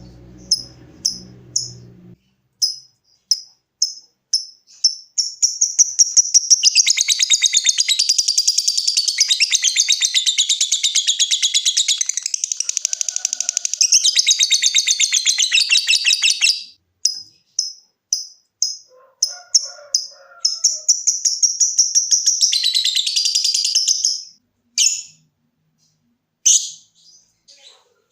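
Lovebird singing: separate sharp chirps about two a second (the 'ngetik' call), running about five seconds in into a long, fast, unbroken chattering trill (the 'ngekek') that lasts around eleven seconds. After it breaks off come a few more chirps and a second, shorter trill of about four seconds.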